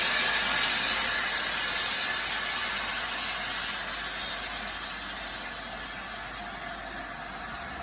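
Steam locomotive letting off steam: a loud, steady hiss that slowly fades away.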